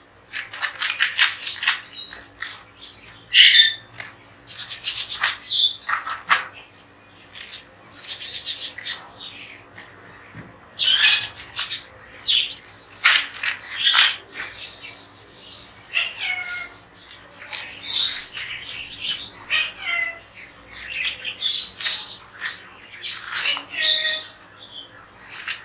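A room full of pet parrots squawking and screeching, loud harsh calls one after another with short gaps, some sliding down in pitch.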